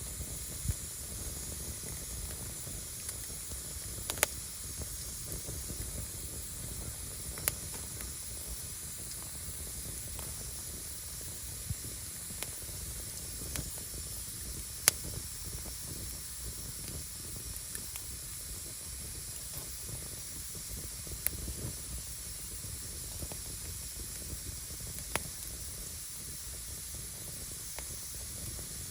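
Wood fire burning: a steady hiss and low rumble from the flames, with single sharp crackling pops every few seconds, the loudest about halfway through.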